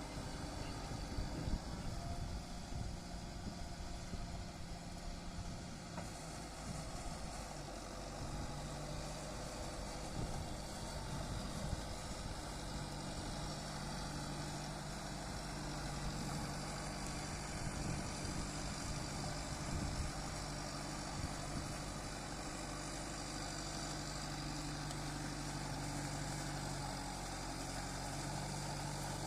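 Kubota MU5501 tractor's diesel engine running steadily, its note shifting up a step a few times as the load or throttle changes.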